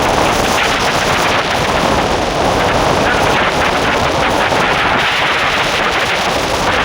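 Royal Enfield Hunter 350's single-cylinder engine running on the move, a rapid train of exhaust pulses, under heavy wind noise on the microphone.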